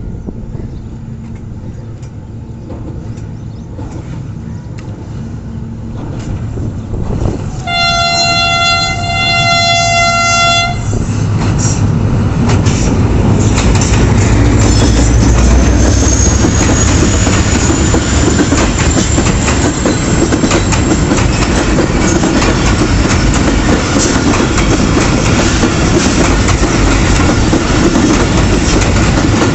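A Pakistan Railways GMU-30 diesel locomotive hauling a passenger express: its engine rumbles as it approaches, then it sounds one horn blast of about three seconds. The locomotive then runs past close by, followed by the coaches rolling over the rails with a steady clickety-clack, and a thin high squeal rises for several seconds partway through.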